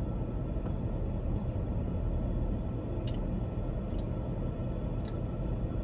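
Steady low rumble inside a stationary car's cabin, typical of the engine idling, with a few faint clicks about three, four and five seconds in.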